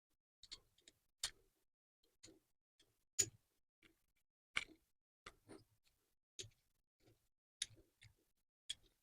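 Small cast-iron swivel bench vise being worked by hand, freshly greased with thicker oil: a string of light metallic clicks and knocks at irregular spacing, about one a second, the loudest about three seconds in. The vise now moves much better than when it was binding.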